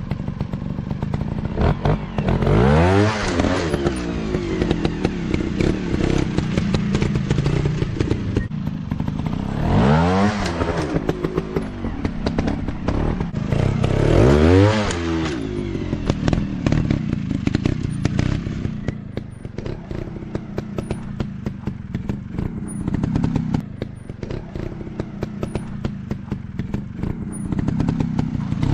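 Dirt bike engines running, revved up and back down three times, with a constant rattle of short knocks and clicks.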